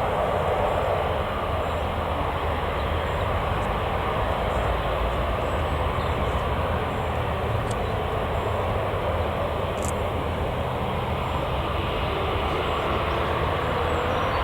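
Jet airliner engines giving a steady, even noise with a low rumble underneath, easing slightly after the first second and building again near the end.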